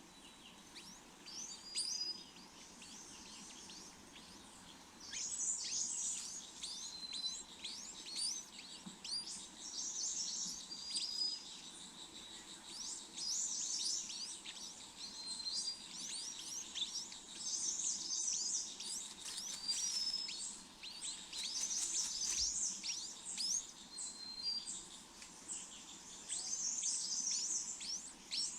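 Small birds chirping: bursts of rapid, high-pitched chirps come every two to three seconds, with short, thin whistled notes in between.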